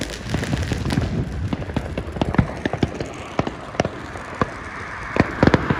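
Fireworks going off: many irregular bangs and pops, with a quick cluster of louder bangs near the end.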